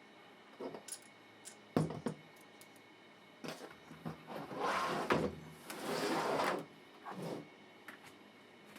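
Parts and packaging being handled during unboxing: a few light knocks and one sharper clunk, then two longer scraping, rustling stretches in the middle, and a last soft knock near the end.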